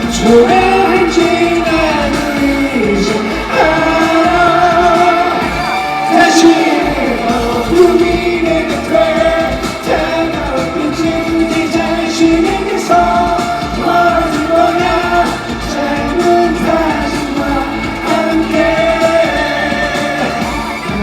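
Live pop band playing through a PA system, with a male voice singing a wavering melody line over the band.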